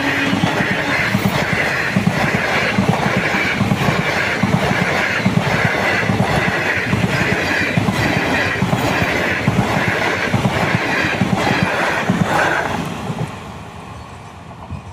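Coaches of an express train passing close at high speed: a loud rush of wheels on rail with a regular clatter about three beats every two seconds. About thirteen seconds in, the sound drops away as the last coach goes by and the train recedes. The tail of a horn blast ends at the very start.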